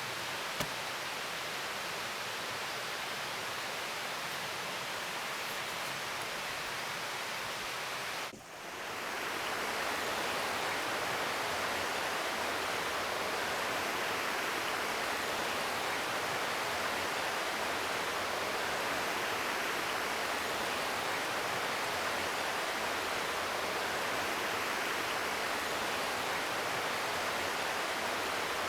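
Steady rushing of running water, even and unbroken, with a brief drop about eight seconds in, after which it continues slightly louder.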